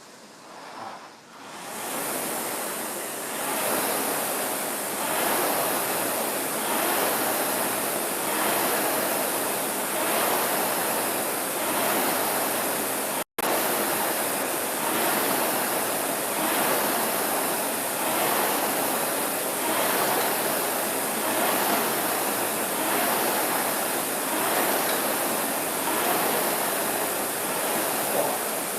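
Concept2 Model E indoor rower's air-resistance flywheel fan, damper at 5, whooshing under a hard rowing effort. The rushing swells with each drive stroke, about every 1.7 seconds.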